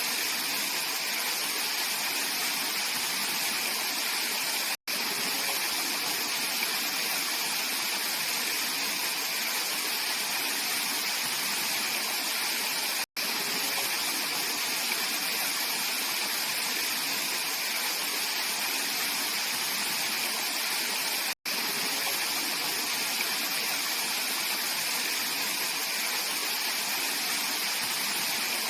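Mountain valley stream flowing: a steady, even rush of water. Three times it drops out for a split second.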